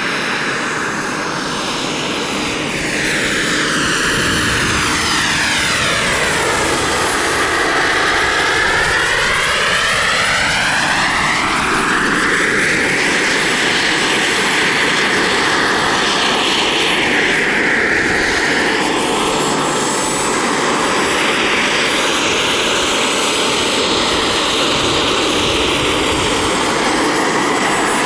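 Radio-controlled model aircraft flying, its engine running steadily while the tone sweeps and swirls as it moves about and passes near, most strongly about 4 to 12 seconds in and again around 16 to 20 seconds.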